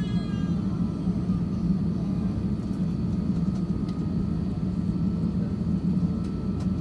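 Steady low rumble inside the cabin of an Airbus A350-1000 taxiing, with a faint steady high whine running through it.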